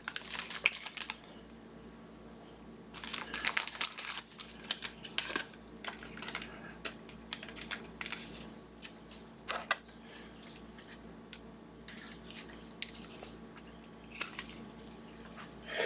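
Trading cards and plastic wrappers or sleeves being handled, with irregular rustling, crinkling and light clicks coming in bursts over a steady low hum.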